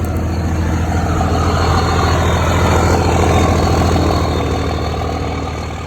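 Pickup truck's engine idling steadily through a newly fitted 4-inch exhaust with a 6-inch tip, an even low rumble that fades out near the end.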